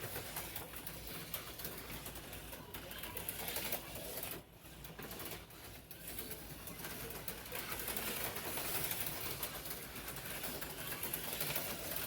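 HO-scale slot cars running laps on the track: a continuous whirring, rattling noise that dips briefly twice midway.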